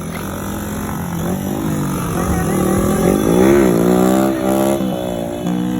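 Honda Win 100 motorcycle's single-cylinder four-stroke engine being revved in a series of throttle blips, its pitch climbing and dropping several times, highest and loudest about halfway through.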